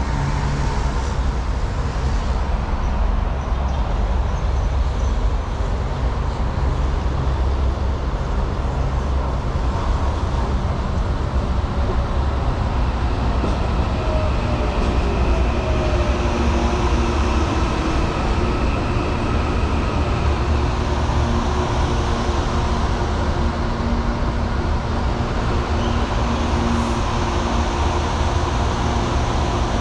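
Electric commuter train moving through the station: a steady rumble, with a whining tone that comes in about halfway.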